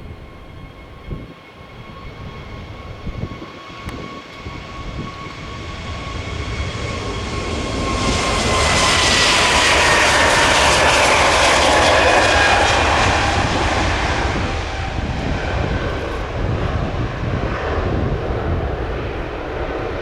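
Jet airliner's engines at takeoff power passing by, swelling to a peak and then fading. Its high whine drops in pitch as it goes past, over a steady low rumble.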